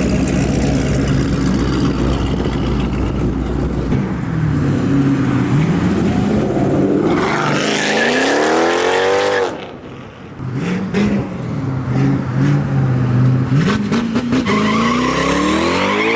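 Modified performance car engines revving and accelerating hard. A long rising pull climbs from about seven seconds in and cuts off sharply about nine and a half seconds in. After that comes more engine sound, with another rising rev near the end.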